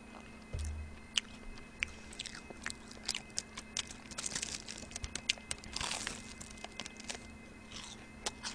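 Close-miked biting and chewing of a churro: a run of crisp crunches and small crackling clicks, over a faint steady hum.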